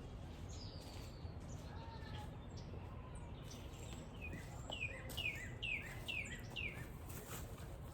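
Small songbirds calling: a run of about six quick, falling chirps in the second half, with fainter calls earlier, over a steady low outdoor background hum.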